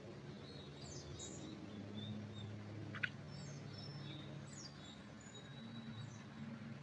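Small forest birds chirping faintly and sporadically, with short high calls and quick downward sweeps, over a low steady hum. A single sharp click sounds about three seconds in.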